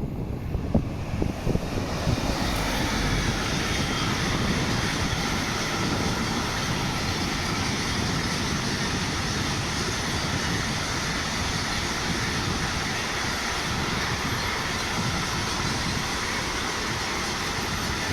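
A train passing on the track: a few knocks in the first second or so, then steady rolling noise of wheels on rails that swells about two seconds in and holds.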